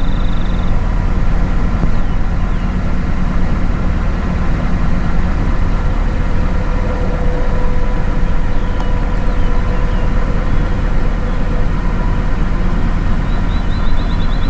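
Truck running while being driven: a steady low engine hum with road noise. A rapid light ticking comes briefly near the start and again near the end.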